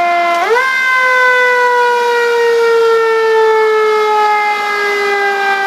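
Fire engine siren sounding one loud wail: it climbs to pitch in about half a second, then slides slowly down in pitch over the next five seconds.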